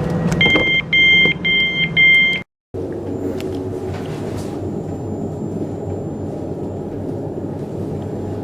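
Door warning beeps on a Class 387 Electrostar electric train: four two-tone beeps about half a second apart over the carriage's low rumble. After a short cut, the steady low rumble of the train interior with a faint high whine.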